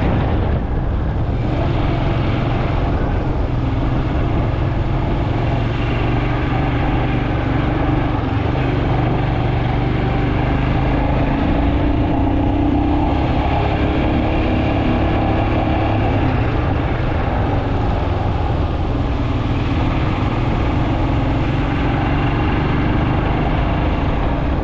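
Royal Enfield Himalayan 411's single-cylinder engine running steadily while the motorcycle is ridden along the road, heard from on the bike. The pitch rises a little about halfway through.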